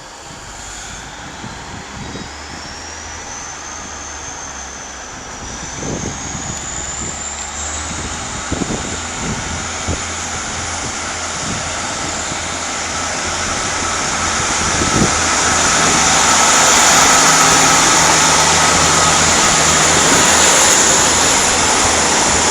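East Midlands Railway diesel multiple unit pulling away and accelerating, its engine noise building steadily louder, with a high whine rising in pitch over the first several seconds and a few knocks along the way.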